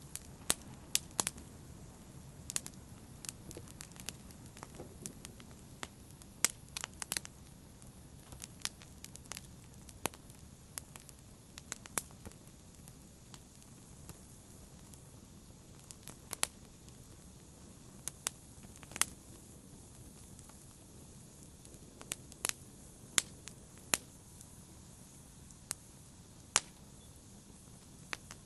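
Wood fire crackling, with sharp irregular pops and snaps over a low steady rumble of burning.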